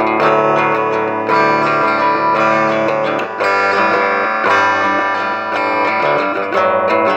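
Guitar music: plucked guitar notes and chords ringing on, with new notes struck about once a second.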